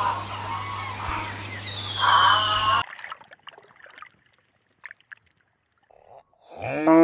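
Animal calls: a short clip with a steady low hum, a falling high whistle and a brief call in its first three seconds, then after a quiet gap a loud, pitched call that starts near the end.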